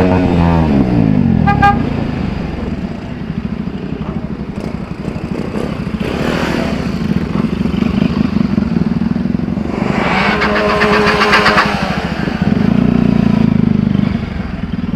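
Single-cylinder Bajaj Pulsar 200 motorcycles with an aftermarket Akrapovic exhaust running, one engine's revs dropping away in the first second and a half, then a steady run. A louder horn-like tone sounds for about two seconds near ten seconds in.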